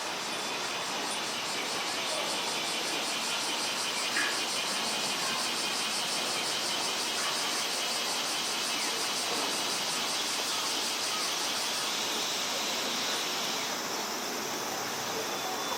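Insects chirring steadily outdoors, a fast, even pulsing high in pitch over a general outdoor hum.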